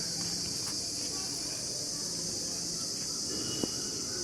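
Steady high-pitched insect chorus chirring without a break, with one sharp click about three and a half seconds in.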